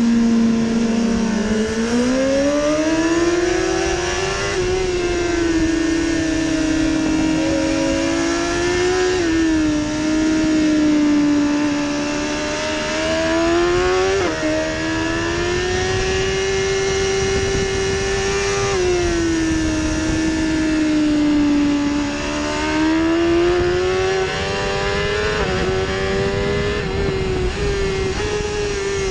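BMW superbike engine running at high revs, heard from onboard over loud wind rush. Its pitch climbs and falls with the throttle, with short sudden dips at upshifts and slower falls when braking into corners.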